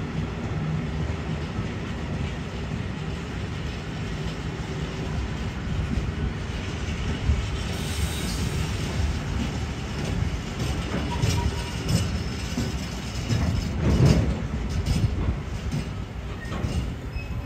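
A train running past on the track: a steady rumble with the wheels clacking over rail joints, and a louder knock about fourteen seconds in.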